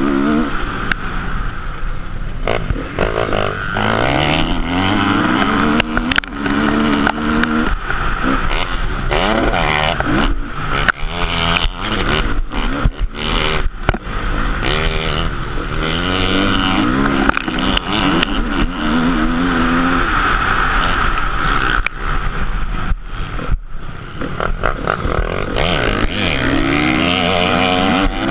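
Motocross bike engine revving up and easing off again and again, its pitch repeatedly climbing through the gears and dropping back, with many short knocks and breaks in the sound.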